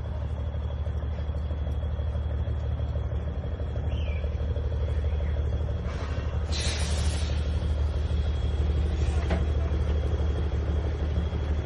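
A logging truck's diesel engine running steadily, low and rumbling, growing a little louder. A short burst of air hiss comes about six seconds in, followed by a brief click or knock about three seconds later.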